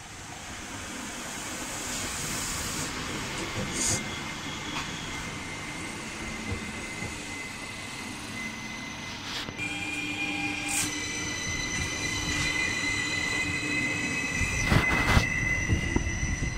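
Stadler FLIRT electric multiple unit running in along the platform, its rolling noise building steadily. From about halfway through, high-pitched squealing tones from the wheels join in, one of them slowly rising in pitch. Near the end come a few loud knocks.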